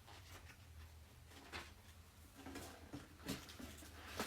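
Faint handling of a cardboard product box, a few soft taps and scrapes over quiet room tone.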